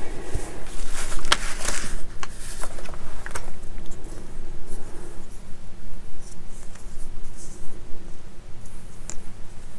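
Small plastic scale-model parts being handled and fitted together: scattered light clicks, taps and short scraping rustles, busiest in the first few seconds and again near the end.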